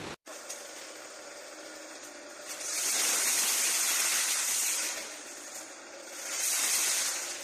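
Hydraulic hiss from a vertical scrap-metal baling press, swelling loud twice over a steady lower background noise.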